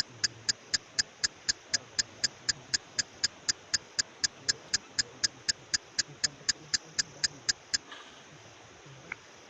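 Rapid, even ticking, about four ticks a second, which stops about eight seconds in.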